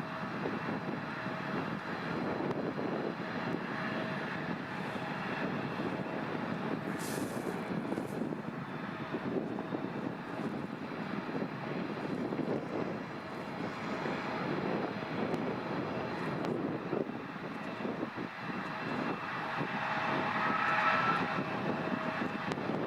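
Airliner engines running, a steady rumble with a faint held whine, growing a little louder near the end.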